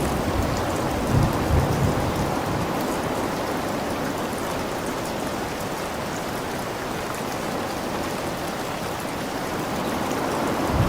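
Steady rain falling hard, with a low thunder rumble dying away in the first couple of seconds.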